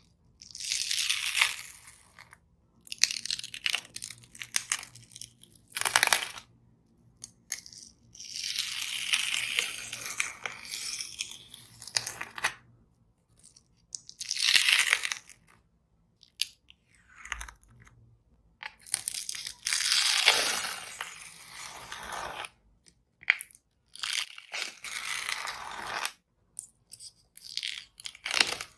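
The dried skin on a slime being peeled and torn, making hissing, crackling tearing sounds. They come in bursts of one to two seconds with short pauses between, and a few sharp clicks.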